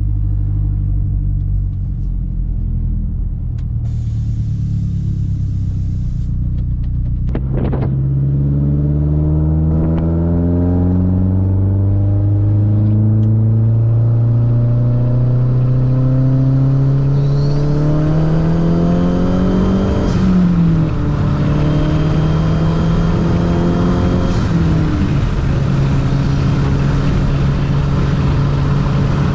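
Mazdaspeed3's turbocharged 2.3-litre four-cylinder, with a straight-piped exhaust, under way. About seven seconds in, the engine note climbs steadily for about twelve seconds as the car accelerates, then drops at a gear change and holds fairly steady. Its pitch dips again briefly near the end.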